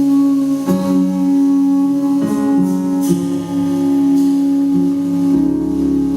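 Live jazz band playing: one long held note over plucked guitar chords, with the lower notes changing every second or so.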